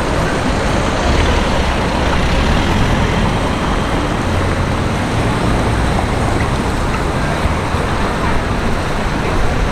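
Steady road traffic: a mix of engine rumble and tyre noise from passing vehicles, with no single car standing out.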